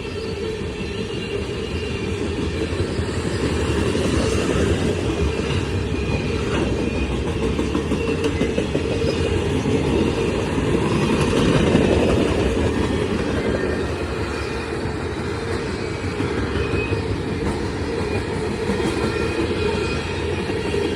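Freight cars of a CSX manifest train rolling steadily past, wheels clacking over the rail joints, with faint high wheel squeal.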